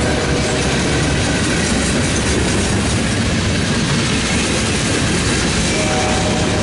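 Norfolk Southern mixed freight train rolling past close by: a steady rumble of steel wheels on rail as centerbeam lumber flatcars and a tank car go by. A faint squealing tone sounds near the start and again near the end.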